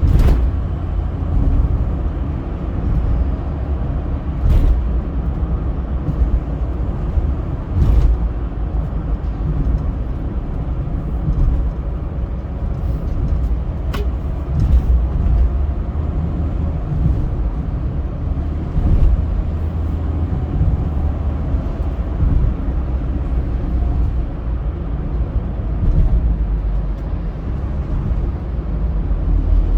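Steady low rumble of a car driving on a highway, with a few brief sharp clicks.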